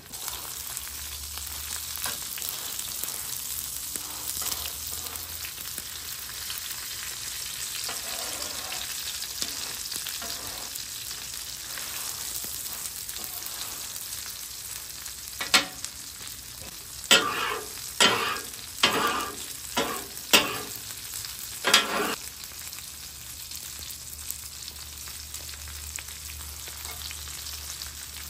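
Breaded pork tenderloin cutlets shallow-frying in oil on a flat-top griddle, a steady sizzle. About halfway through comes a run of about six loud, sharp hits as metal tongs work and turn the cutlets.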